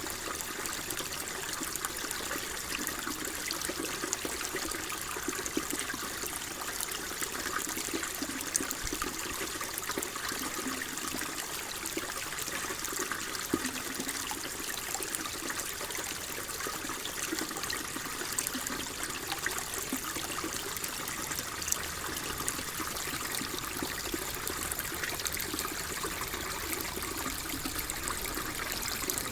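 Water flowing and trickling steadily, a continuous babble of small splashes with no pause.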